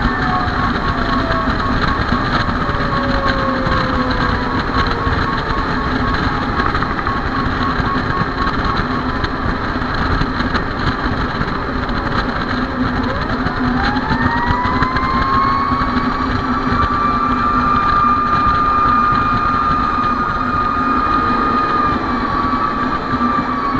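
A fire engine's mechanical siren winds slowly down, then about halfway through winds back up to a high pitch and holds there. Under it runs the steady noise of the engine and the road.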